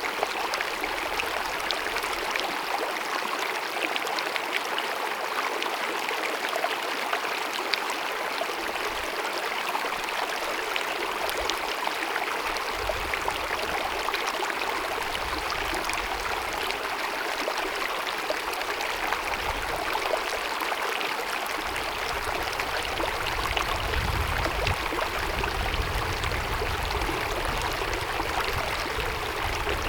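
A small glacier-fed mountain meadow stream babbling and running steadily over rocks. A low rumble comes and goes under it in the second half.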